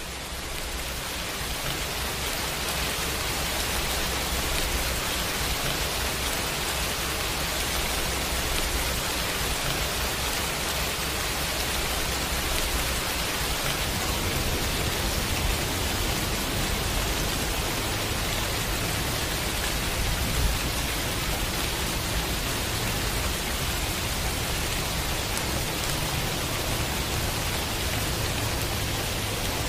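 Heavy rain pouring steadily, a dense, even hiss that fades in over the first couple of seconds and then holds level.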